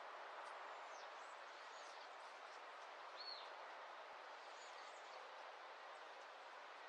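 Faint dawn birdsong: several short, high chirps over a steady background hiss, with the clearest chirp about three seconds in.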